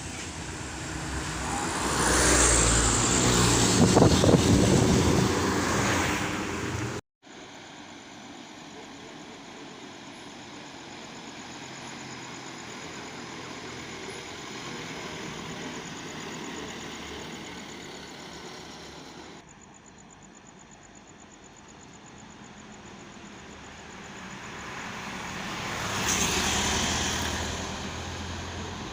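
Road traffic: a heavy vehicle passes close by, swelling and then fading. After an abrupt cut comes steadier, quieter road noise, and a second vehicle approaches and passes near the end.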